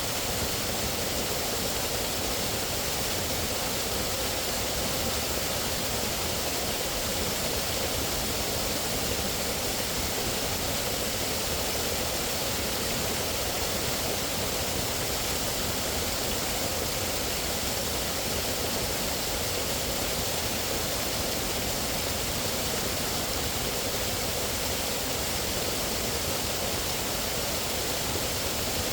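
Steady, even rushing noise of outdoor ambience, with no distinct events standing out.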